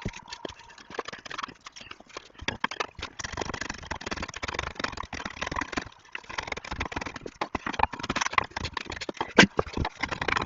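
Quick, irregular knocks and clatters of hard objects striking one another, with one louder knock near the end.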